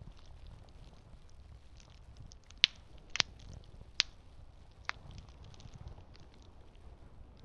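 Campfire burning: a steady low rumble of the flames with light crackling, broken by four sharp pops of burning wood from about the middle of the stretch, one of them a quick double.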